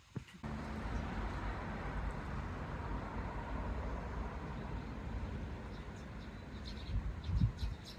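A strong gust of wind rushing and rumbling on the microphone. It comes up suddenly about half a second in, with a couple of low buffets near the end.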